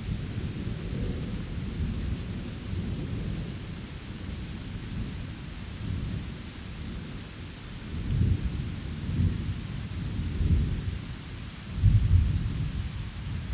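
Rain ambience with a steady hiss and rolling thunder underneath, the rumble swelling several times in the second half and loudest near the end.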